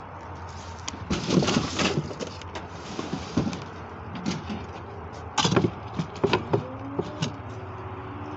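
Handling noises: a stretch of rustling and scraping about a second in, then several sharp knocks and clicks, such as a door or latch being worked.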